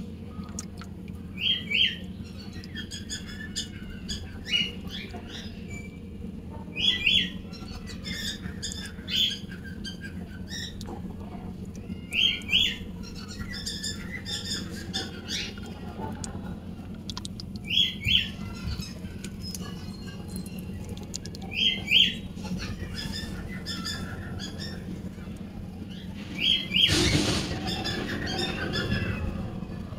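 Birds calling: a short squawking call repeats about every five seconds, with fainter chirps between, and a louder squawk near the end. A steady low hum runs underneath.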